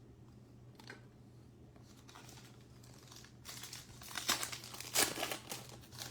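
A trading-card pack wrapper being crinkled and torn open. The crackling starts about three and a half seconds in and is loudest near the end.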